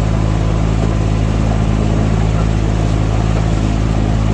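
A vehicle engine running steadily at an unchanging pitch: a continuous low drone with no revving.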